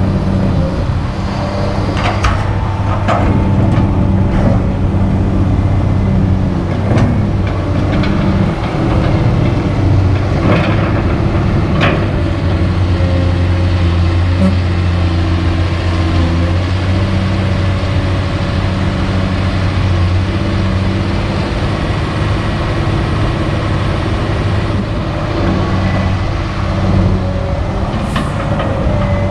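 Kobelco SK200 excavator's diesel engine running steadily under working load, with several sharp knocks in the first half.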